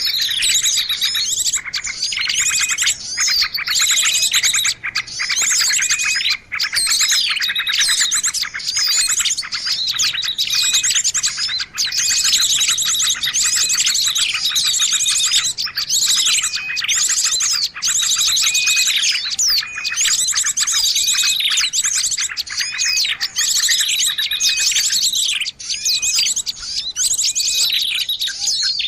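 A dense chorus of small songbirds: rapid high trills and repeated down-sweeping chirps, several birds overlapping without a break. It is a bird-trapping lure recording (suara pikat), meant to draw small birds in.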